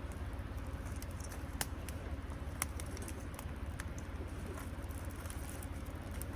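Wood campfire crackling, with a few irregular sharp pops over a steady low rumble.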